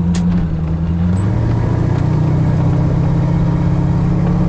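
Chevrolet 327 small-block V8 with dual exhaust running under way in a 1932 Ford coupe hot rod. About a second in, its note shifts, then climbs slowly as the car gathers speed.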